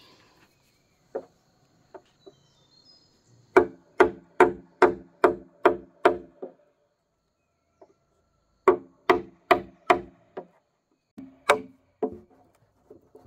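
Chopping into wood with steady, evenly spaced strokes, about two and a half a second, each with a short hollow ring. The strokes come in two runs with a pause between them, and a few more follow near the end.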